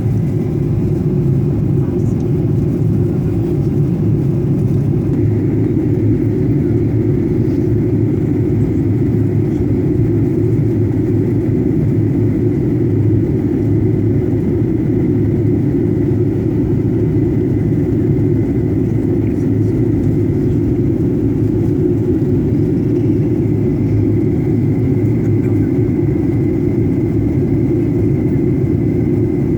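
Steady jet airliner cabin noise during the descent: a constant low rumble of engines and rushing air, with a faint high whine held steady on top.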